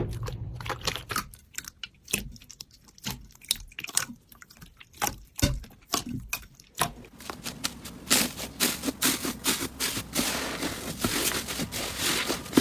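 Slime being squished and worked, a run of small sticky crackles and clicks, sparse at first and thicker and louder from about seven seconds in.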